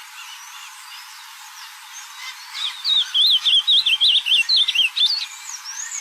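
Ultramarine grosbeak (azulão) singing one loud, rapid warbling phrase of about two and a half seconds, starting a little over two seconds in. Faint chirps from other birds come before it.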